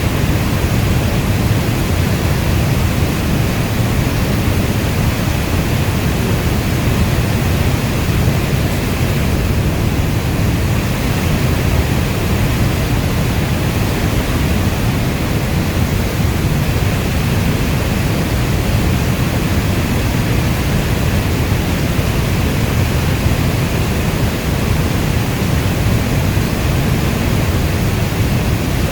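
Steady, unbroken rain noise, heavy and even, weighted toward the low end like brown noise, with no separate drops, drips or thunder standing out.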